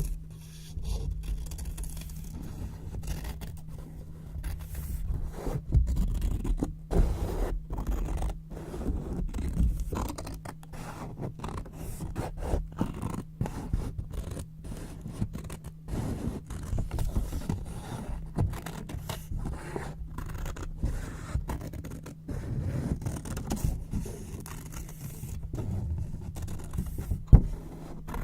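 Scissors cutting white paper: a quick run of sharp snips mixed with paper scraping and rustling as the sheet is handled.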